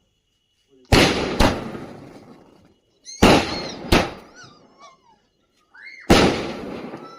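Diwali firecrackers going off: five sharp bangs, the first four in pairs about half a second apart, each dying away over a second or so.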